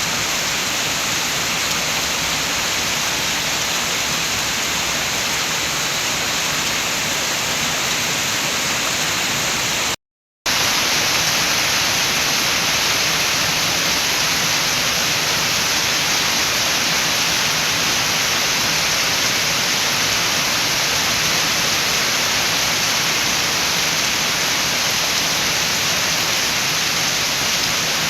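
Steady rain with wind, an even hiss. About a third of the way in it cuts out to silence for about half a second, then comes back slightly louder.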